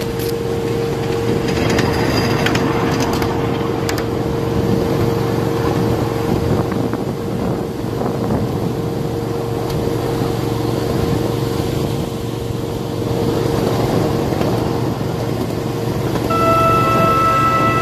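1/8 scale, 7½-inch gauge miniature ride-on train running along the track with a steady running noise and a few clicks in the first few seconds. Its horn sounds about a second and a half before the end.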